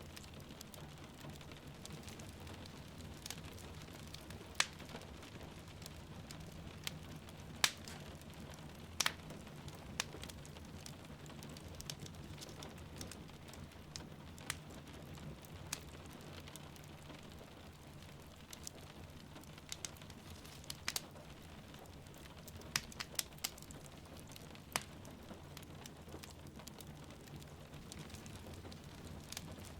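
Fireplace crackling, with sharp irregular pops scattered through, over a steady soft rush of rain.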